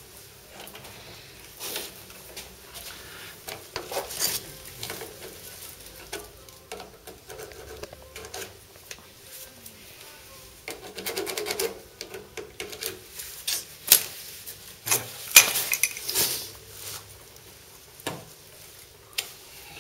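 Metal tools and parts being handled: irregular clinks, taps and knocks, with a short stretch of scraping about halfway through and the sharpest clinks a little later.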